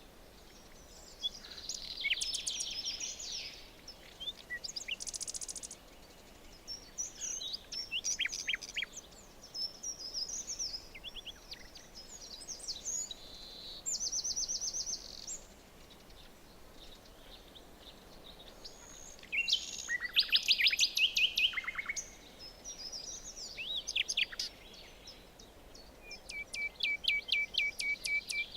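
Several songbirds singing in a forest: varied whistled phrases, trills and quick repeated chirps, one after another, over a faint steady background hiss.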